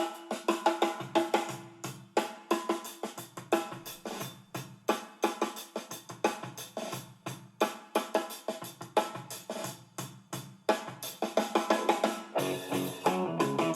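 Drum-led music played near full volume through a Harman Kardon Esquire Mini Bluetooth speaker, with steady kick and snare hits and little deep bass.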